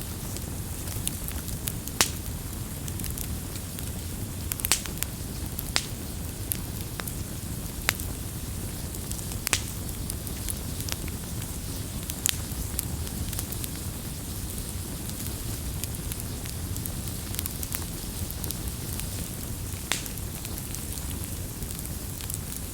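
Wood campfire burning: a steady low rumble and hiss of flames with sharp crackles and pops at irregular intervals, the loudest about two seconds in.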